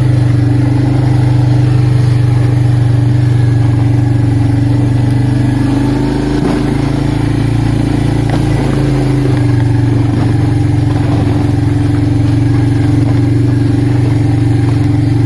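ATV engine running steadily while being ridden, with a slight easing in its low tone around six to nine seconds in.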